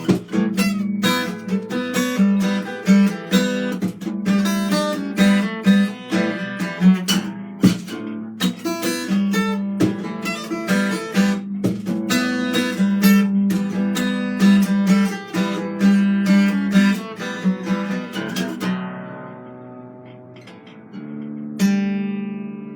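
Acoustic guitar played solo with quick plucked and strummed notes, slowing near the end to chords left ringing out.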